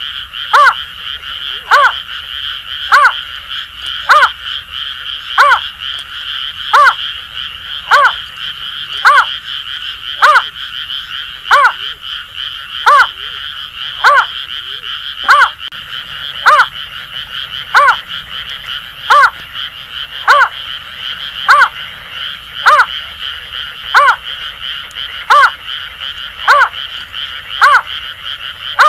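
Greater painted-snipe giving short hooting calls, one about every 1.2 seconds in a steady series. Behind them runs a continuous chorus of Asian grass frogs calling at night.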